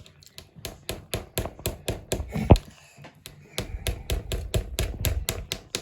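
Plastic LEGO Technic parts clicking and knocking as a piece is pressed into place, a quick run of sharp clicks with a short pause in the middle and one heavier knock about two and a half seconds in.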